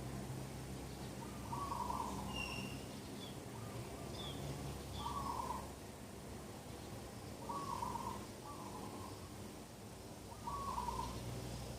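Morning birdsong: a bird repeats a short low hooting call about every two seconds, with a few thin high chirps from a smaller bird between the first calls. A low steady hum runs underneath.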